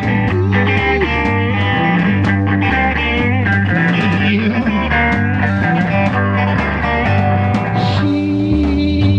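Live band playing an instrumental break between sung lines: guitars over a steady bass line.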